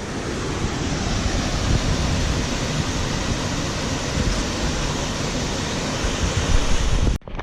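Steady rushing noise of fast-flowing river water, with wind buffeting the camera microphone in uneven low rumbles. It cuts off suddenly near the end.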